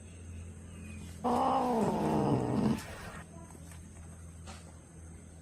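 A cat yowling once: a single drawn-out low call about a second and a half long that falls in pitch toward its end.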